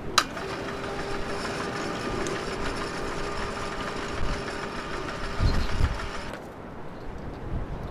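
A small electric motor starts with a sharp click and runs steadily with a constant hum for about six seconds, then cuts off suddenly. Low gusty rumbles come in near the end.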